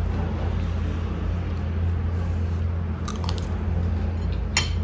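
A person chewing a mouthful of fried rice, over a steady low hum, with a few light clicks about three seconds in and a sharper click near the end.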